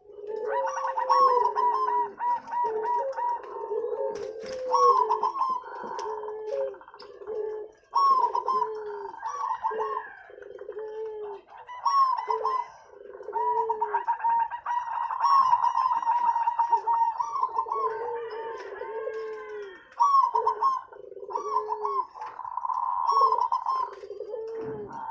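Zebra doves (perkutut) cooing over and over, each phrase a run of fast stuttering notes leading into longer coos.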